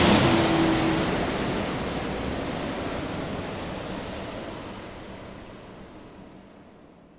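Steady rushing noise of an airliner cabin in flight, with a faint low hum at the start, fading away gradually until it is gone at the end.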